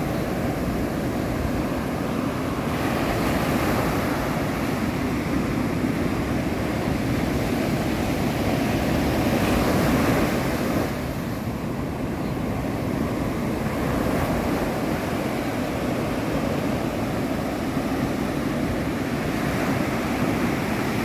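Ocean surf washing with wind blowing over the microphone, a steady rushing noise that swells a few seconds in and again around ten seconds in.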